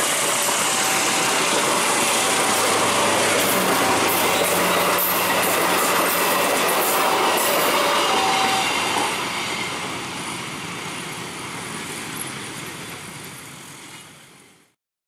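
Passenger train rolling past at fairly high speed, its wheels clattering over uneven, wavy track. A repeating two-note chime, likely the level crossing's warning bell, sounds under it for the first nine seconds. About nine seconds in the noise drops as the last carriage passes, then fades and cuts off just before the end.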